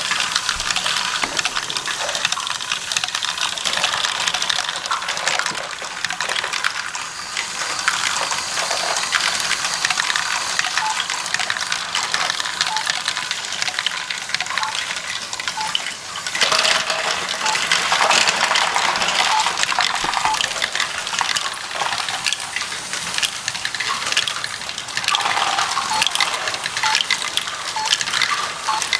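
Many small plastic Lego pieces clattering and clicking against each other in a continuous jumble of sharp little clicks, growing busier and louder about halfway through.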